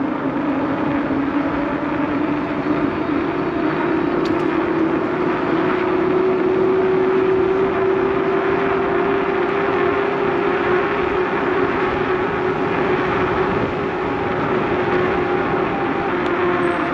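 Steady droning hum whose pitch rises slightly over several seconds and then holds, over a constant wash of wind and road noise from a moving bicycle ride.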